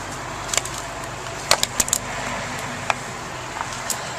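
Several sharp clicks and knocks of small hard objects being handled, with a quick cluster of them about a second and a half in, over a steady low hum.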